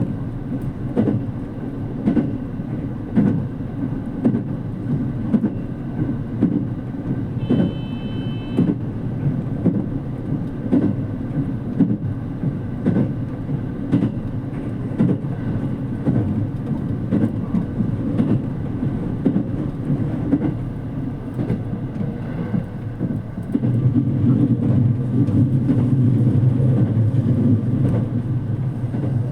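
JR Kyushu 787 series limited express train running at speed, heard from inside the car: a steady rumble with the wheels clicking over rail joints about once a second. A brief high tone sounds about eight seconds in. The low rumble grows louder near the end.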